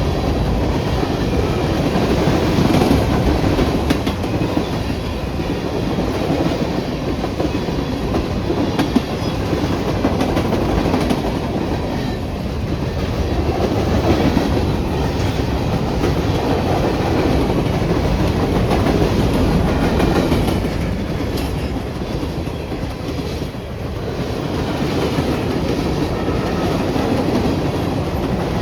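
Train passing close by: a steady, loud rumble of wheels on rails that swells and eases a few times without letting up.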